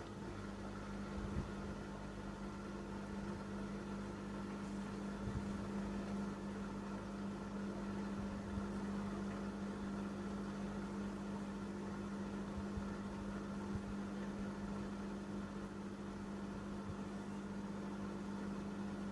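Panasonic NA-147VB2 inverter washing machine running with a steady hum that holds one pitch throughout, and a few faint knocks.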